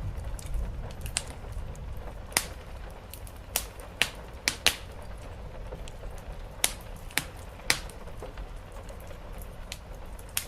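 Wood fire in a fireplace crackling, with about ten sharp, irregular pops, over a steady soft rain hiss.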